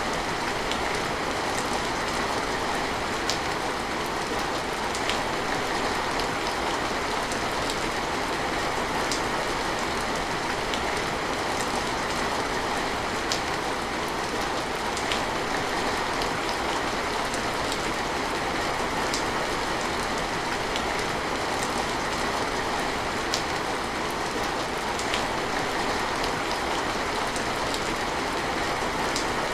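Steady rain falling, an even hiss with scattered single sharper drop hits every second or two.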